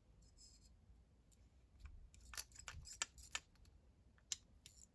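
Faint small metallic clicks and light scrapes of a screwdriver working the screws of a small motorcycle carburettor, mostly in the second half.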